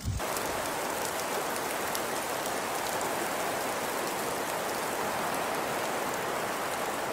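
Steady hiss of heavy precipitation falling on surfaces, even throughout with faint ticks of individual drops.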